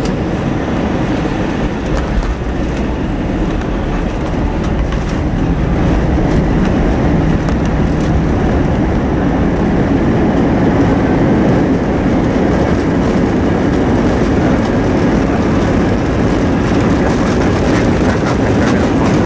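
Cabin noise of an Airbus A321 on its landing roll: a loud, steady rumble of wheels and engines that grows louder about five seconds in and then holds.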